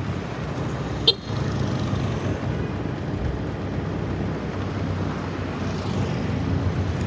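Motorbike engine running steadily at riding speed under a constant rush of road and air noise. About a second in comes one short, sharp click.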